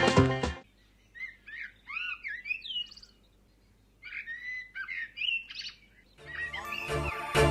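A small songbird singing: two bursts of quick, gliding whistled and chirping notes with a short silent gap between them. Background music stops just before the song and comes back in near the end.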